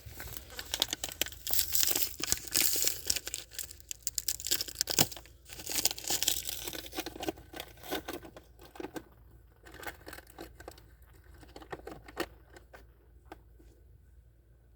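Crinkling, rustling handling noise with rapid crackles, busiest in the first half and thinning out after about eight seconds.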